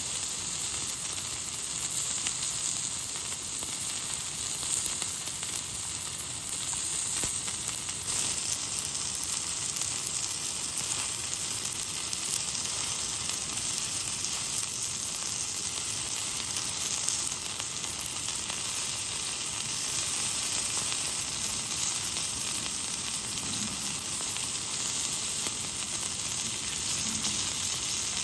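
Food frying in a pan, a steady, even sizzle that does not let up.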